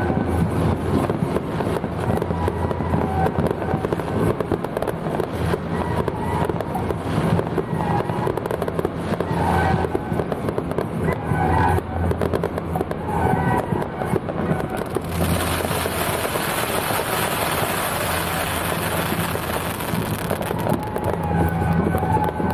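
Fireworks and firecrackers crackling continuously, over a steady low hum. The crackle grows denser and more hissing from about two-thirds of the way in for several seconds.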